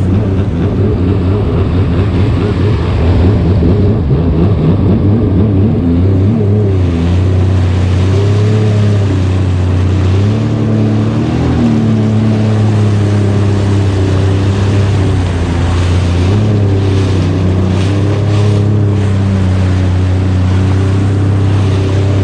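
Personal watercraft (jet ski) engine running at low speed, its pitch rising and falling as the throttle is eased on and off, then settling to a steadier drone.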